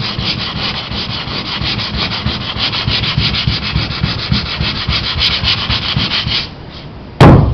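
Sandpaper rubbing across a fiberglass sailboat hull by hand in quick, even back-and-forth strokes, sanding across a scratch to take it out. The sanding stops near the end and is followed by one loud thump.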